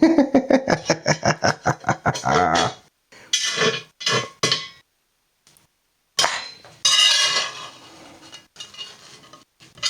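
A spatula clinking and scraping against a cast iron skillet: a quick run of taps for the first few seconds, a few separate knocks, then a longer scrape about six seconds in.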